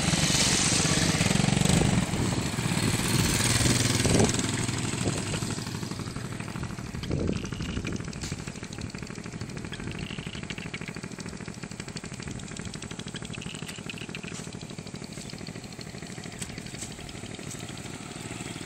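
Motorbike engine running, louder for the first four or five seconds and then settling to a steadier, quieter hum.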